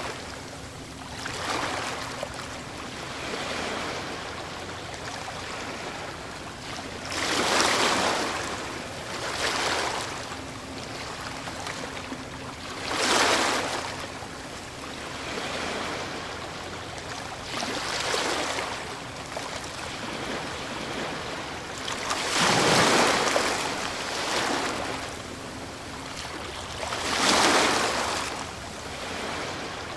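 Ocean waves breaking on a shore, each wave building to a hissing wash and fading, with the loudest breaks roughly every four to five seconds over a steady surf noise.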